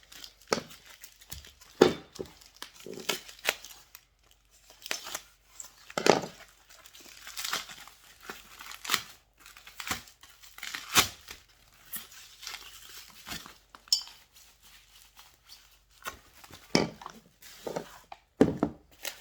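Packaging crinkling and tearing in irregular bursts as plucker parts are unwrapped and handled, with a few sharp knocks of parts being set down or moved.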